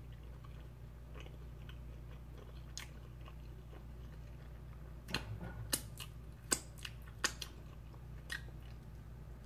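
A person chewing a mouthful of stromboli, with a handful of short, sharp mouth smacks in the second half, over a low steady hum.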